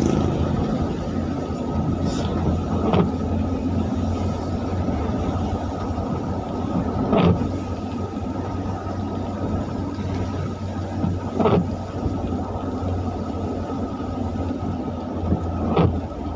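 Motor vehicle driving on a rain-wet road: a steady rumble and hiss of engine and tyres, with a short sharp knock about every four seconds.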